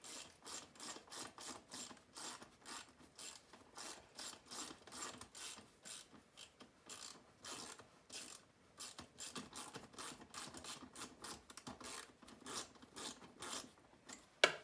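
Hand socket ratchet clicking in quick, even strokes as a fuel-tank bolt is backed out, with one sharper knock near the end.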